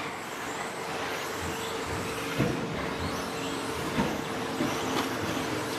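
Several 1/10-scale 2WD electric stadium trucks with 13.5-turn brushless motors racing on a dirt track: a steady mix of motor whine and tyre noise, with short rising whines and a few sharp knocks about two and a half, four and five seconds in.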